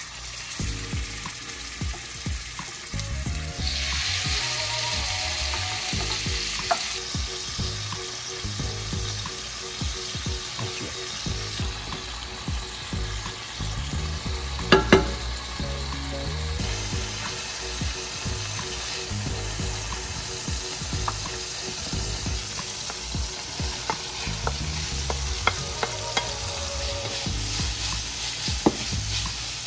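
Fish pieces sizzling in hot oil in a frying pan, with a wooden spatula stirring and turning them and a few sharp clacks against the pan, loudest about halfway through. Later, sliced onions frying and being stirred.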